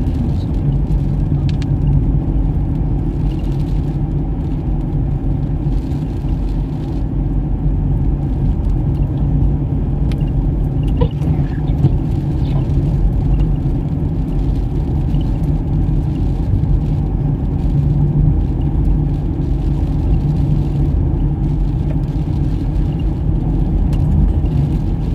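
Toyota Fortuner SUV driving, heard from inside the cabin: a steady low rumble of engine and road noise that holds even throughout.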